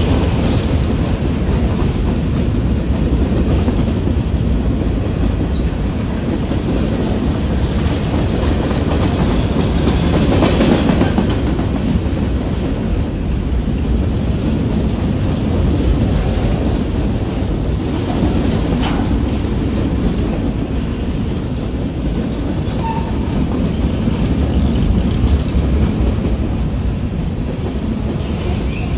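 Freight train of covered hopper cars rolling past: a steady low rumble of steel wheels on rail with clickety-clack, and a few sharper clicks now and then.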